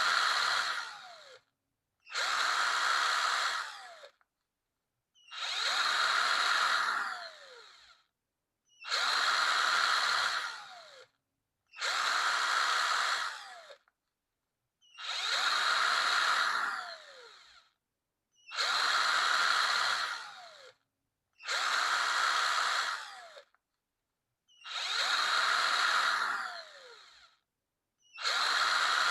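Electric drill run in short bursts of about two seconds, roughly every three seconds, about ten times; each burst ends with a falling whine as the motor spins down after the trigger is released.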